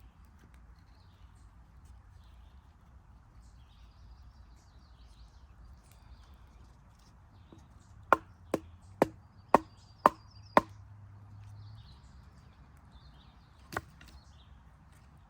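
Wood being chopped: six sharp strikes about two a second, then a single lighter strike a few seconds later.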